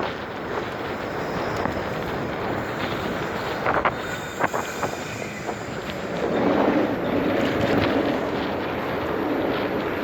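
Steady rolling rumble and wind buffeting the microphone while riding a bicycle, with a few sharp rattles and knocks about four seconds in and a louder rumble from just past halfway.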